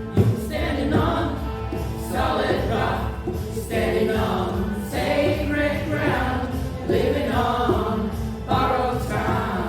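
A choir singing in phrases a second or two long over a steady instrumental backing.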